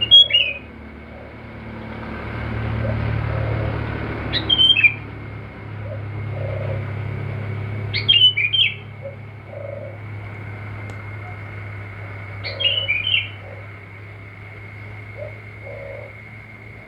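A songbird sings a short, loud phrase of quick falling notes four times, about every four seconds. Under it run a steady high tone and a low hum.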